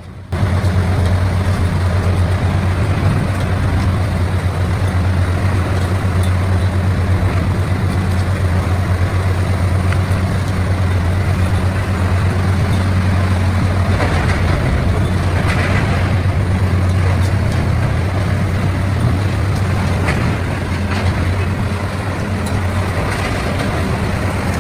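CBI 6400 CT horizontal grinder running under load: a steady heavy engine drone with dense grinding noise over it. It comes in abruptly at the start and eases slightly near the end.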